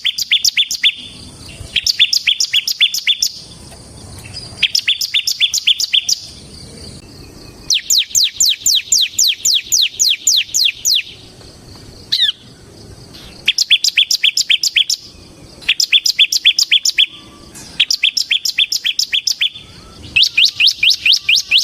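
Bar-winged prinia (ciblek), the 'ciblek semi' form, singing in 'ngebren' style. It gives repeated bursts of rapid, high, falling notes, about seven a second, each burst lasting a second or a few, with short pauses between them and a single lone note about halfway through.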